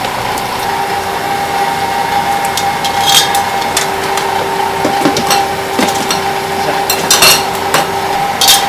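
Kitchen work on seafood: scattered knocks, clicks and scrapes of tools and utensils on a cutting board and pans, over a steady mechanical hum.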